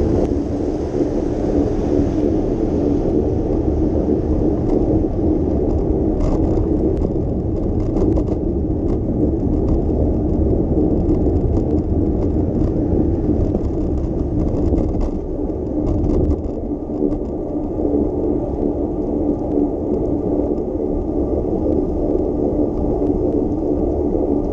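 Steady rumble and whir of a bicycle ride over wet city pavement, with road and traffic noise throughout. Clusters of short ticks and rattles come in twice, about six and about fourteen seconds in.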